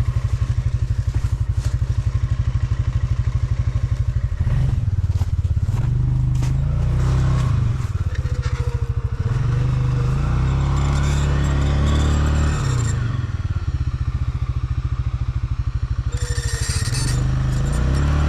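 Stels Leopard 650YL ATV engine running steadily, then revved up and down from about four seconds in as the rider gives it throttle while the winch reels in to pull the quad out of the snow. Brief hissy scraping patches come and go in the last part.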